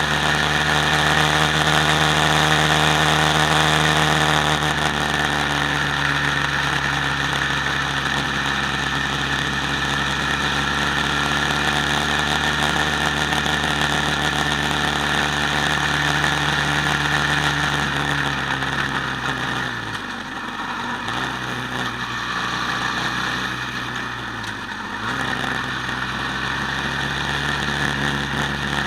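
Quad bike engine running steadily, heard from on board. The engine note eases down gradually, dips briefly twice in the last third, and picks up again near the end.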